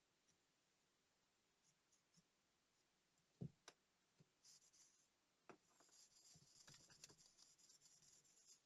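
Quiet small-scale handling of watch parts: a few light taps and clicks, then a stretch of faint scratchy rubbing like brushing or wiping a small part.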